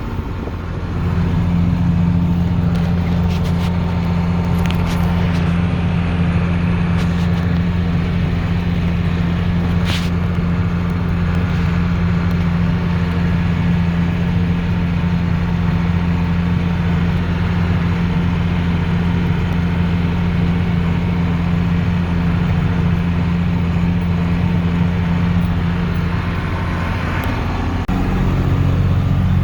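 Tractor engine running steadily at a constant speed, with a shift to a louder, different engine note near the end.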